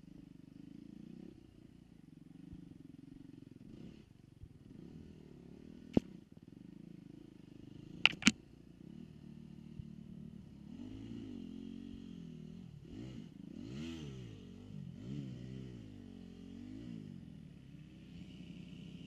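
Dirt bike engines running, the pitch rising and falling repeatedly in the second half as throttle is opened and closed. A sharp knock about six seconds in and a quick double knock about two seconds later.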